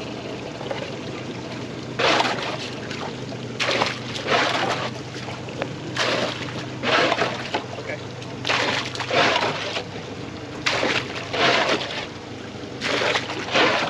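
A boat running through chop, with a steady engine hum under a series of short splashes of water against the hull, about one every second or so.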